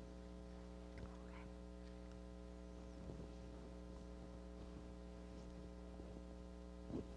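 Steady electrical mains hum at low level, with faint short knocks about a second in and near the end.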